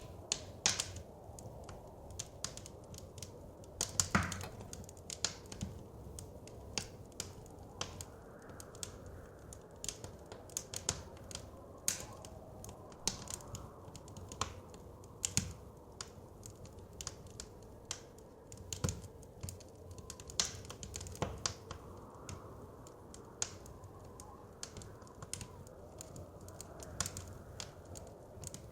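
Wood fire crackling in a fireplace, with irregular sharp pops and snaps, over a low, steady rush of wind that swells and eases slightly.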